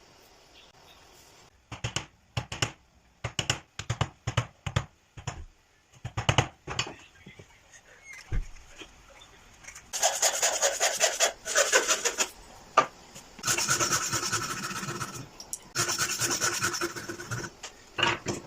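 A hand tool working wood. First come short, separate scraping strokes, about two a second. From about halfway in there are three longer bouts of steady, gritty rasping.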